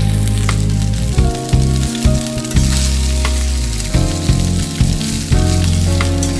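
Rice with potato and onion sizzling in hot oil in a pan as it is stirred with a spatula, with a few clicks of the spatula against the pan.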